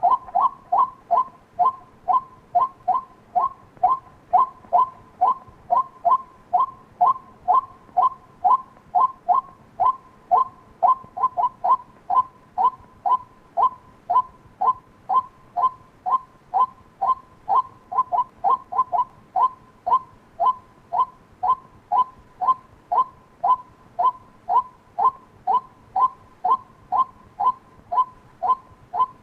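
White-breasted waterhen call, a short note near 1 kHz repeated steadily about twice a second, played as a decoy lure.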